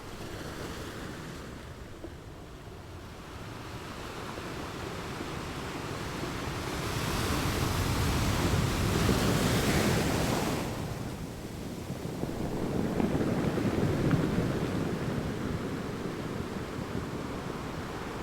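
Rushing surf of ocean waves, swelling and ebbing twice, loudest about eight to ten seconds in and again around thirteen seconds.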